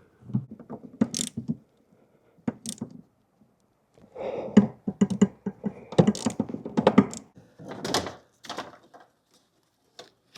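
Socket ratchet wrench clicking in several quick runs as a fastener is turned, with a few knocks of tool on metal between them.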